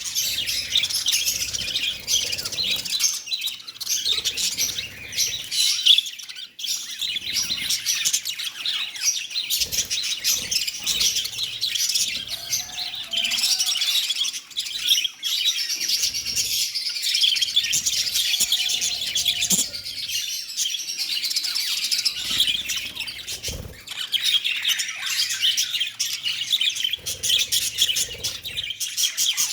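Small pet parrots chattering and chirping without a break, a dense flock twitter of rapid, overlapping high calls.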